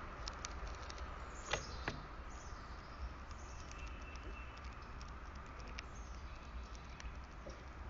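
Birds at a feeder: scattered light clicks and taps, with a few louder ones about a second and a half in, and a faint short chirp, over a steady low hum.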